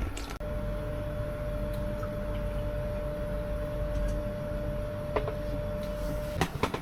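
Air conditioner running in a small camper: a steady hum with a thin, steady whine over it, and a few light clicks near the end.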